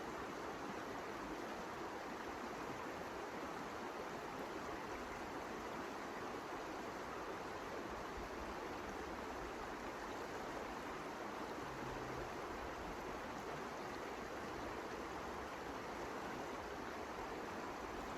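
Steady rushing noise that holds even throughout, with no breaks or separate events.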